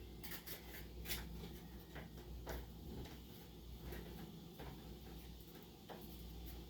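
Faint, irregular clicks and taps, about eight over several seconds, over a steady low hum.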